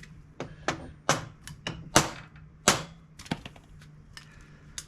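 Metal tools knocking at an old door-hinge bushing to drive it out of the hinge: about a dozen sharp, uneven taps, with two louder knocks near the middle. The bushings are worn out.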